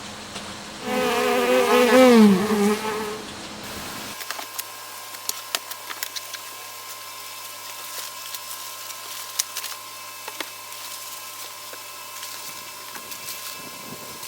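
A flying insect buzzing close by for a couple of seconds, its pitch wavering. Then scattered light clicks over a faint steady hum.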